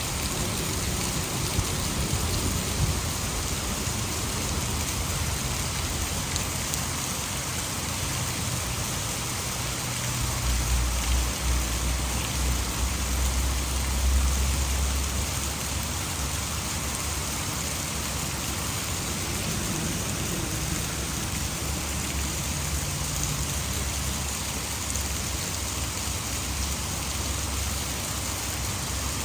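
Heavy rain falling steadily, with a low rumble of thunder swelling from about ten seconds in and fading by about fifteen.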